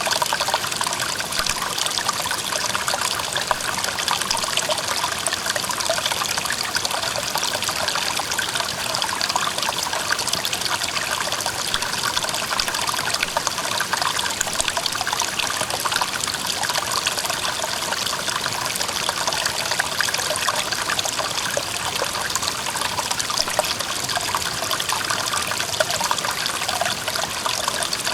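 Clear mountain stream running over rocks, a steady even rush and trickle of water with fine splashing.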